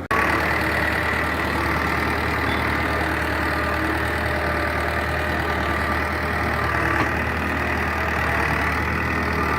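Powertrac 4455 BT tractor's diesel engine running at a steady, even speed.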